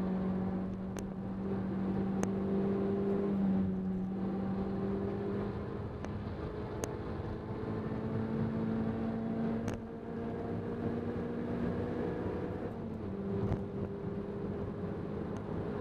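Renault Clio 200 Cup's 2.0-litre four-cylinder engine running steadily at speed, heard from inside the cabin, its pitch slowly climbing and then dropping once about three-quarters of the way through. A few sharp ticks sound over it.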